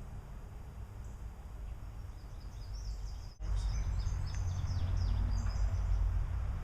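Small birds chirping in short, high calls over a steady low rumble, which grows louder about halfway through.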